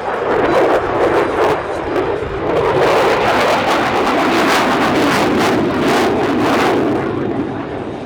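Jet aircraft flying past: a loud, rushing engine noise with crackle, swelling in the middle and easing toward the end.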